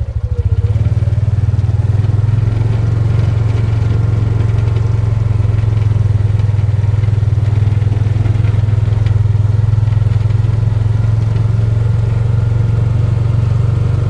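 A motor vehicle engine running steadily with a low, even rumble.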